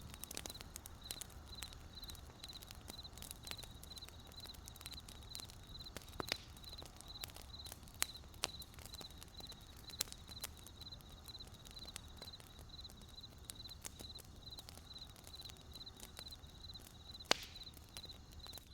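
Wood campfire crackling with scattered sharp pops, a few louder snaps standing out, while a cricket chirps in a steady, evenly spaced rhythm.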